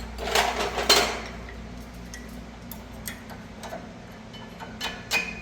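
Metal scraping and clicking as a worn rear brake pad of a 2019 Ford Expedition is pried sideways out of its caliper bracket clips: a loud scrape about half a second to a second in, light ticks after, and a quick run of sharp metallic clicks near the end.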